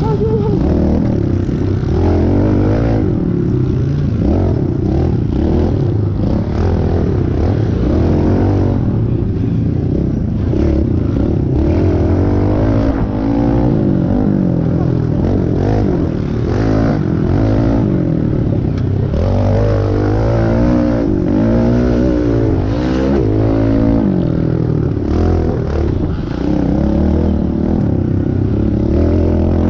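Kawasaki KLX110 pit bike's single-cylinder four-stroke engine revving up and down over and over as it is ridden hard around a track, its pitch repeatedly climbing and dropping, with a heavy low rumble underneath.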